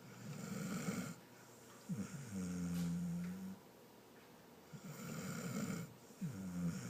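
Pit bull snoring in its sleep: two breath cycles, each a raspy breath followed by a steady low droning snore.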